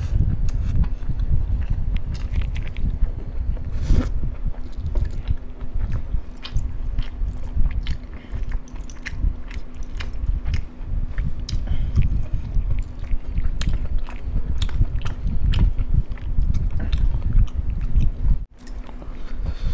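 Close-miked eating sounds: a man chewing and biting fried chicken drumsticks and masala rice, with many short wet mouth clicks. The sound drops out briefly near the end.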